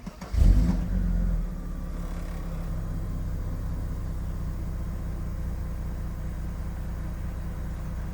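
Mercedes-Benz W140 S320's 3.2-litre straight-six starting: a brief crank, then it catches about half a second in with a flare of revs that drops back after about a second, settling into a steady idle.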